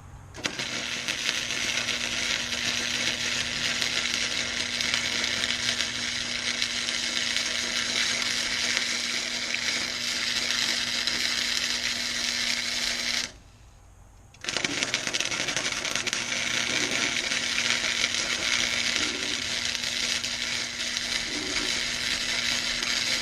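Flux-core wire welder arc welding a bead: a steady hiss with a low hum under it. It breaks off for about a second past the middle, then the arc is struck again and runs on.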